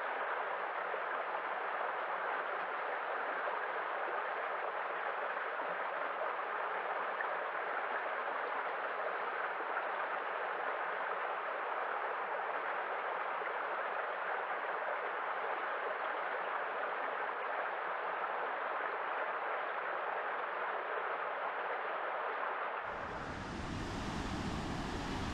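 Running water rushing steadily, like a stream or small waterfall. About 23 seconds in it switches abruptly to a deeper, fuller rush of water.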